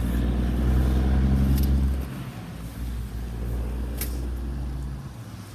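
A truck's engine running loudly as it passes close by, a steady low drone that drops away sharply about two seconds in to a quieter rumble. A single sharp click comes near the end.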